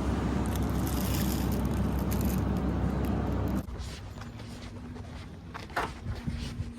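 A Suzuki Every kei van's engine running steadily, then cutting off sharply about three and a half seconds in. A few light clicks and scrapes follow in the quiet cabin.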